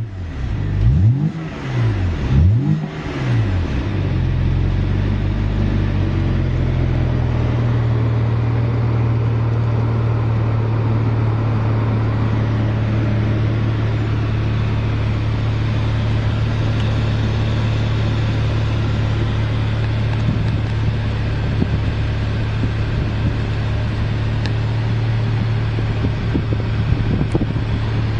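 2009 BMW 3 Series coupe engine breathing through a Remus aftermarket exhaust. It is revved in a few quick blips over the first few seconds, then settles into a steady idle.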